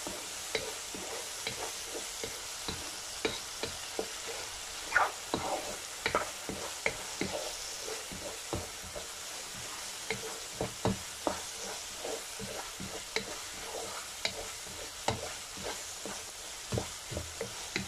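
Chicken keema frying in oil in a non-stick kadhai as a wooden spatula stirs the ground spices through it: a steady sizzling hiss with frequent short, irregular scrapes of the spatula against the pan.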